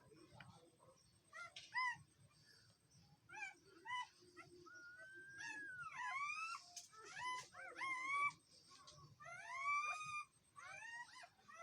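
Newborn St Bernard–Rottweiler cross puppies squealing and whining: a run of short high-pitched cries that rise and fall in pitch, coming thicker and overlapping in the second half.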